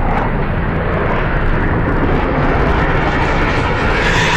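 Loud, steady jet aircraft engine noise, growing brighter toward the end.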